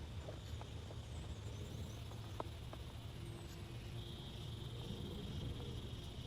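Insects chirring in a steady high drone that grows louder about four seconds in, over a low rumble, with scattered light ticks.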